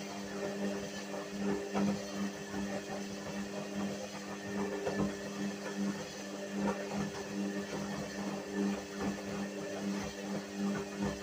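Whirlpool washing machine running, its motor humming steadily under irregular clicks and knocks from the turning drum.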